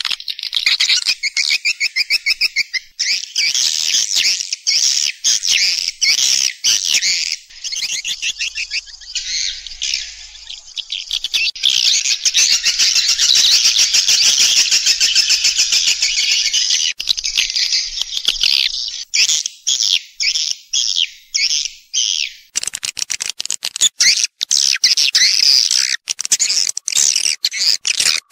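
Swiftlet calls: a dense, continuous chorus of high, rapid chattering twitters and trills, as played in swiftlet houses to lure the birds in to roost and nest. The texture changes abruptly about 22 seconds in, where the recording is spliced.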